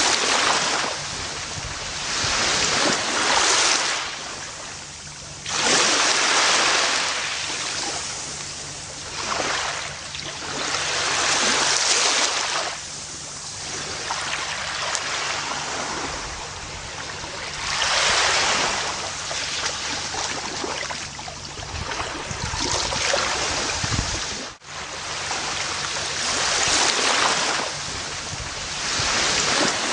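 Gentle ocean waves breaking and washing up on a beach, the surf swelling and ebbing every few seconds, with a momentary dropout in the sound about two-thirds of the way through.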